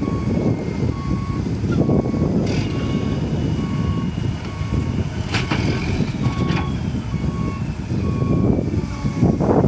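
Backup alarm of a heavy construction machine beeping steadily over the low running of its diesel engine, with a few sharp metallic clanks.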